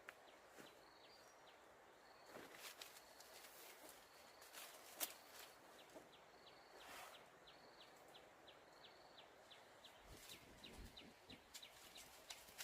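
Faint outdoor ambience of small animal calls: short high chirps repeating about once a second, with a run of quick ticks in the second half. A few sharp clicks break through, the loudest about five seconds in.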